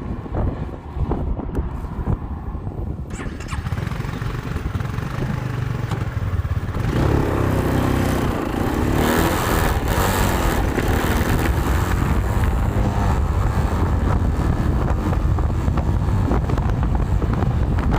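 Very strong wind buffeting the microphone, given as about 135 km/h: a loud, continuous low rumble that swells and grows fuller about seven seconds in.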